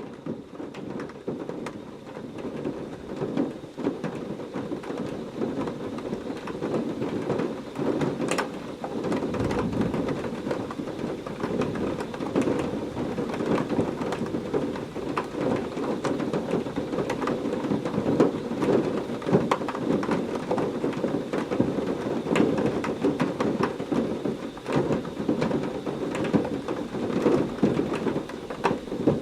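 Heavy rain falling steadily with a dense patter of drops, fading in over the first few seconds. A low thunder rumble joins from about ten seconds in.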